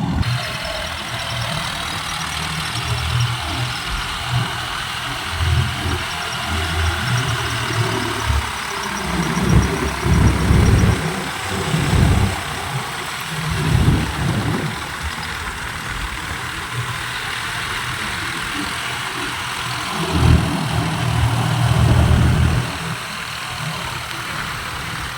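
Tractor diesel engine running steadily, with several surges of louder revving, the longest near the end.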